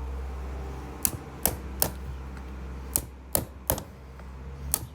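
A series of sharp knocks, like blows on wood, in two quick runs of three and one more near the end, over a low steady hum that stops near the end.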